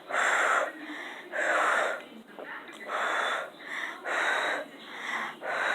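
A person breathing heavily close to the microphone: loud breaths about every second, with softer breaths between them.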